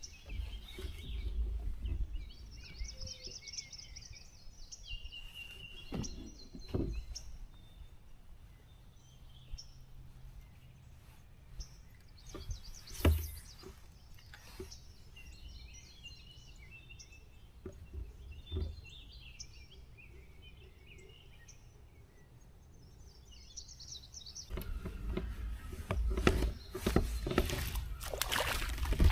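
Songbirds singing in the background, with a few sharp knocks here and there. In the last few seconds louder handling and water noise from the kayak takes over.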